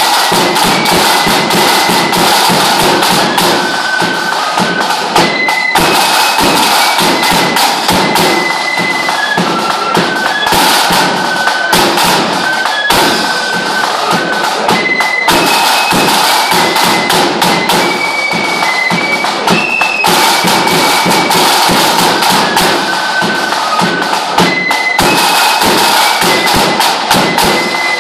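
Lambeg drums beaten with canes in a rapid, unbroken rattle of strokes, with a high, shrill fife playing a tune over them.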